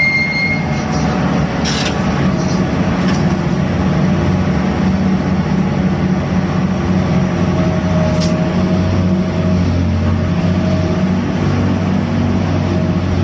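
Gut ship's grab crane working cargo: its engine and winches running with a steady, loud drone, a faint squeal of machinery and a couple of sharp metallic knocks.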